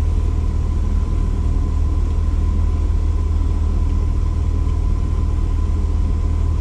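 Steady low hum with a faint, thin steady tone above it, unchanging throughout with no distinct handling sounds.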